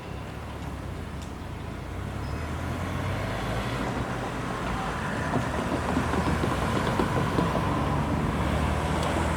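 Metro suburban train running along the track, a low rumble that grows steadily louder, with a faint steady whine.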